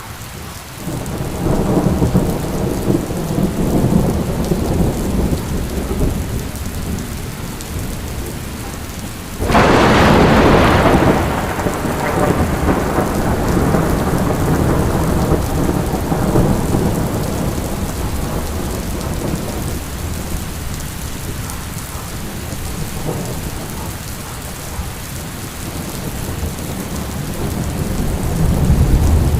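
Rain falling steadily through a thunderstorm, with thunder rumbling low. About nine and a half seconds in a sharp, loud thunderclap breaks and fades into a long rumble, and another rumble builds near the end.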